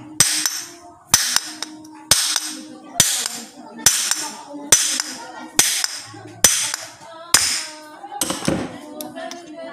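Hammer blows on a power steering pump's rotor shaft, driving it out of the pump housing: about ten sharp metallic strikes, roughly one a second, each with a short ring.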